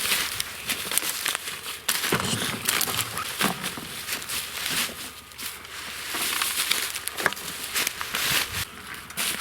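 Rustling and crackling handling noise close to the microphone, with many small sharp clicks.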